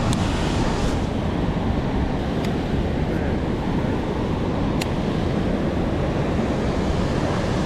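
Fast-flowing river water rushing steadily, with a few faint ticks about a second or two apart.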